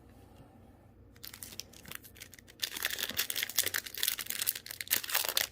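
Foil trading-card booster pack wrapper crinkling as it is handled. It starts about a second in with a dense crackle and gets much louder about halfway through.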